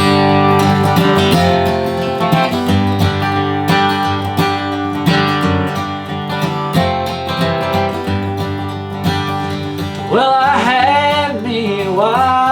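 Bluegrass band on acoustic strings (guitar, banjo, mandolin, fiddle and upright bass) starting abruptly into an instrumental intro of picked notes over a steady bass. A singing voice comes in about ten seconds in.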